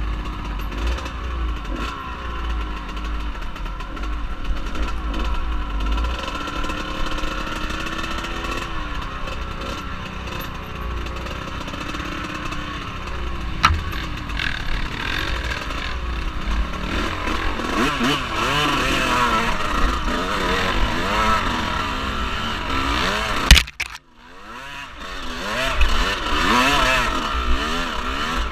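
Off-road vehicle engine running as it is ridden, its pitch rising and falling with the throttle, with a low rumble of wind noise early on. A sharp knock about 23 seconds in is followed by a brief drop in the sound.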